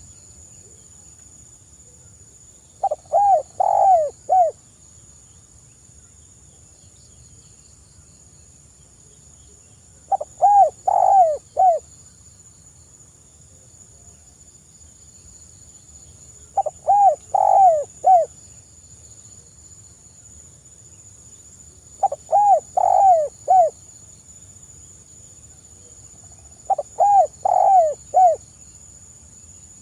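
Spotted dove (tekukur) cooing, five repeated phrases of four or five low notes each, spaced about six seconds apart. A steady high-pitched whine runs faintly underneath.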